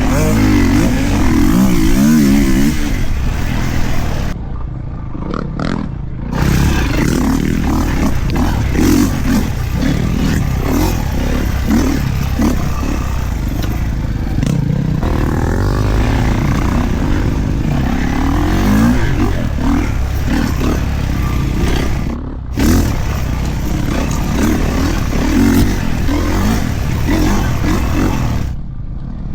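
Kawasaki KX450 four-stroke single-cylinder dirt bike engine revving up and down as it is ridden along a trail. The pitch rises and falls with the throttle, and the sound drops off briefly a few times when the throttle is closed, about five seconds in, a little past twenty seconds, and near the end.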